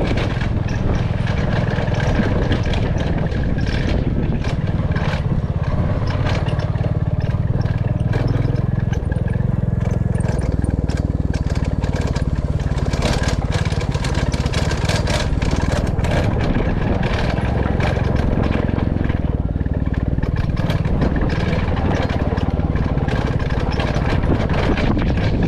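Royal Enfield Classic 350's single-cylinder engine and exhaust running steadily under way, with many short clicks and knocks over it.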